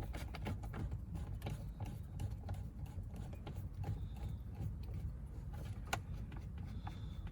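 Scattered light clicks and taps of a Torx screwdriver and loosened screws on dashboard trim, over a steady low hum. Two short high beeps sound about four and seven seconds in.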